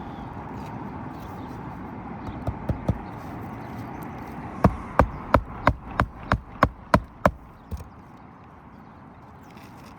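Hammer driving roofing nails into an asphalt shingle: a few light taps, then a run of about nine sharp, ringing strikes at roughly three a second, ending with one softer blow.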